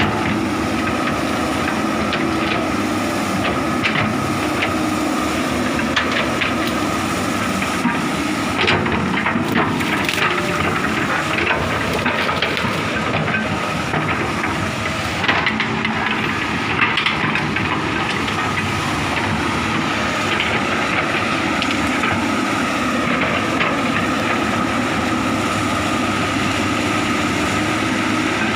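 Komatsu excavator running steadily under load, with a steady high whine, while wood cracks and snaps at irregular moments as it works through piled timber and brush.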